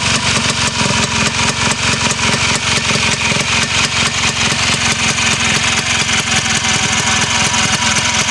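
1967 Sachs 280A two-stroke snowmobile engine running steadily on its own with a rapid, even beat. It has just been rebuilt with a new bearing, gaskets and seals, and is running well.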